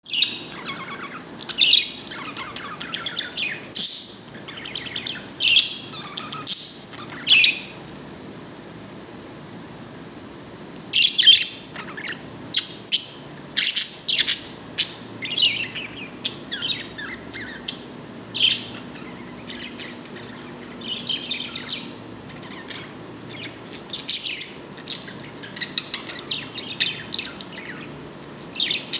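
Pet bird chirping and tweeting in quick clusters of short, high notes, with a quieter gap of a few seconds about a third of the way in; the owner calls it a happy sound.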